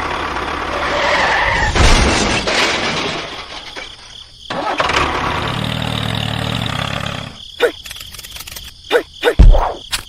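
Vehicle sound: a gritty scraping noise for the first few seconds, then a steady low engine-like hum, ending in a few sharp clicks.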